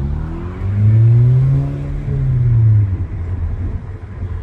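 Honda Civic's engine running through a muffler-deleted exhaust with a deep drone, as heard from inside the car. It climbs in pitch under acceleration about half a second in, holds, then drops away near the three-second mark as the throttle eases.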